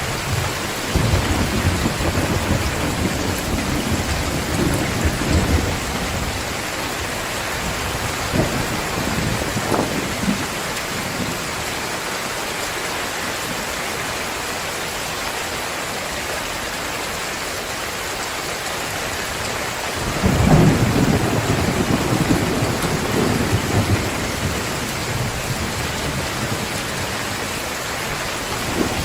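Heavy rain falling steadily, with rolls of thunder: one rumble in the first few seconds and a louder one starting about two-thirds of the way through.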